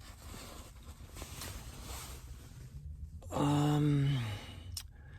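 A man's wordless vocal sound, a drawn-out hum or groan that falls in pitch for about a second, comes after a few seconds of faint, even noise. A single sharp click follows near the end.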